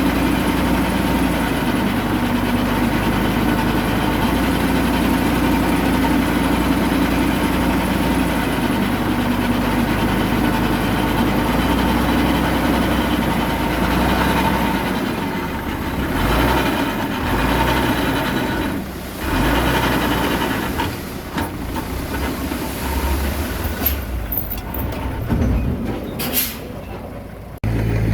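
Diesel engine of a Komatsu D21A mini bulldozer running loud and steady, its sound turning uneven about halfway through with a few sharp clicks, then cutting off abruptly near the end.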